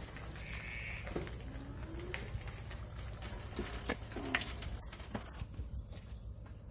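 Birds calling: low cooing of a dove with short high thin chirps of small birds, over a steady low hum, and a few light knocks of footsteps on pavement, the loudest a little past the middle.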